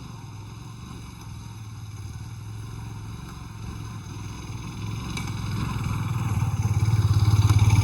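Two-wheeler engine pulling uphill under load, growing steadily louder as it comes toward the camera and loudest just before it cuts off near the end.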